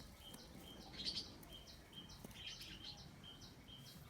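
Faint birds chirping: one short high note repeated evenly about twice a second, with a few other brief chirps.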